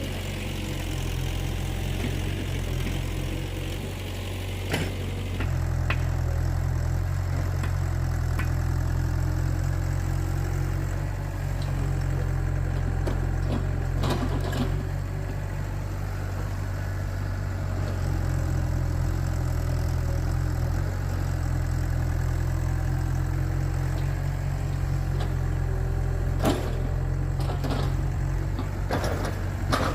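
An engine running steadily at constant speed, with a few sharp knocks or clatters on top of it.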